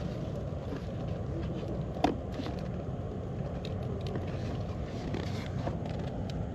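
Campfire burning with a steady low rumble and a few sharp crackles, one loud pop about two seconds in.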